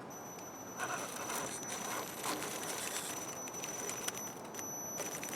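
Axial SCX10 RC scale crawler climbing over an obstacle: a steady high whine from its 35-turn electric motor and speed controller, cutting out briefly about four and a half seconds in, over crackling and crunching of tyres on rock and dirt.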